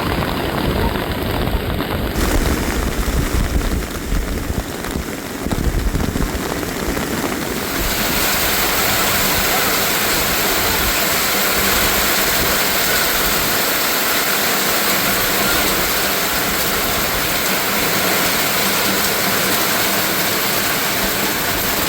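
A low rumble for the first several seconds, then from about eight seconds in a steady, even hiss of water, heavy rain or a rushing stream.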